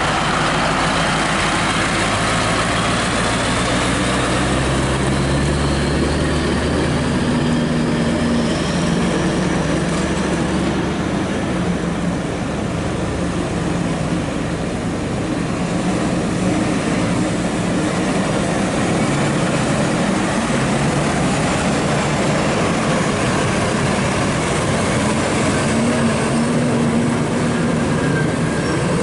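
Heavy truck on the move: a diesel engine running under load together with steady road and tyre noise. The engine's low note is strong in the first several seconds and then fades back into the road noise, while a faint whine rises over the first few seconds.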